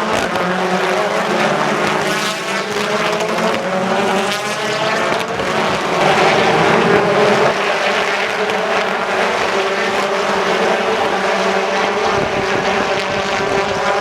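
BTCC touring cars racing at speed, their turbocharged four-cylinder engines running hard. Several engine notes rise and fall in pitch, swelling briefly about six seconds in.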